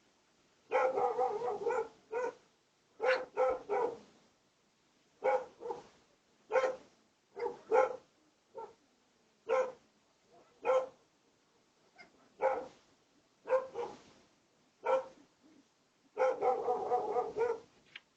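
A dog barking repeatedly: single barks and short runs of two or three, with longer stretches of rapid barking about a second in and near the end.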